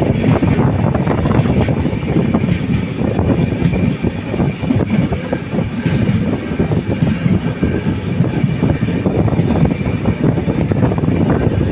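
Passenger express coach running along the track: the steady rumble of wheels on rails, dense with small clatters and knocks, heard at an open coach door.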